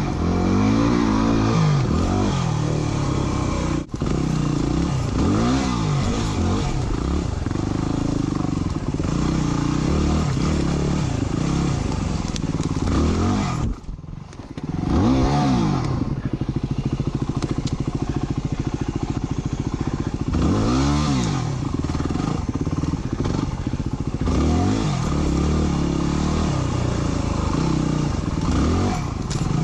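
Dirt bike engine revving up and down over and over as it is ridden through tight turns, the pitch rising and falling every couple of seconds. About halfway through the engine drops away for a moment, then picks up again.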